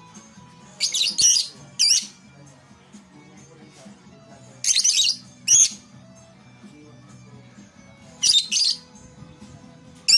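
Lovebirds giving loud, high-pitched squawking calls in three short clusters of two or three, about one, five and eight seconds in, over quiet background music.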